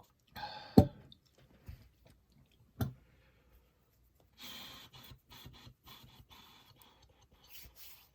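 A person drinking water: two sharp knocks, then several seconds of short gulps and breaths.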